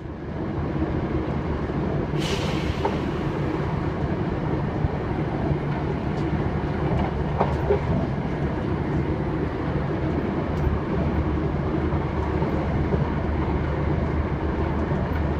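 Steady rumbling noise of a moving vehicle, with a few faint ticks and clicks.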